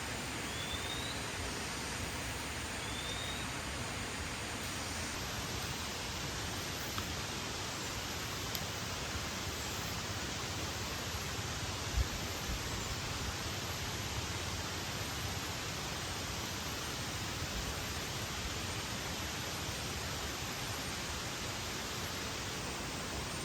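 Steady, even rushing of water, heavy rain or the nearby river, with one soft low thump about halfway through and two short high rising chirps in the first few seconds.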